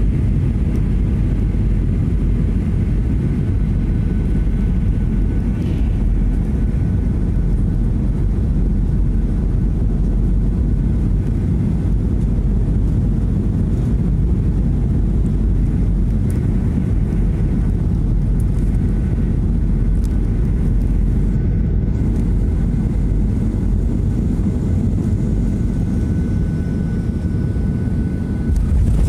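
Jet airliner cabin noise: the steady low rumble of engines and airflow heard from inside the passenger cabin, with a faint high steady whine.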